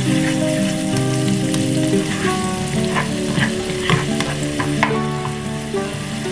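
Garlic paste sizzling in hot oil in a non-stick wok, stirred with a plastic slotted spatula that scrapes and knocks against the pan a few times. Soft background music of held notes plays underneath.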